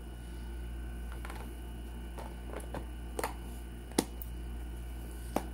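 Plastic food-container lid being pressed down and snapped shut: a series of sharp plastic clicks, the loudest about four seconds in, over a steady low hum.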